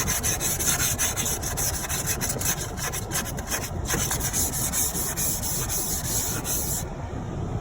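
Ice scraper scraping frost off the inside of a car window in quick repeated strokes, stopping abruptly near the end.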